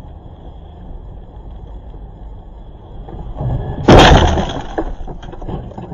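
Car crash: steady low road and engine noise, then one sudden loud impact about four seconds in, followed by a clatter of smaller knocks that dies away over a second or two.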